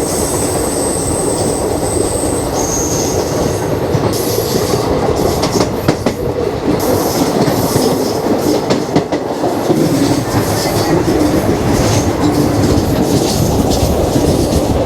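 Express passenger train running along the track, heard on board: a steady rumble of wheels on rails with occasional clicks over rail joints, and a thin high wheel squeal in the first few seconds.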